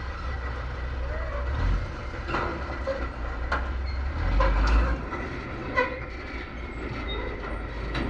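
Heavy truck engine running low, with intermittent metallic clanks and rattles from the truck's body or gear; the rumble swells about four seconds in.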